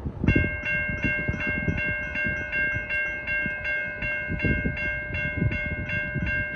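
A railroad grade-crossing bell starts ringing about a third of a second in and keeps striking steadily, about three strikes a second, over low background rumble.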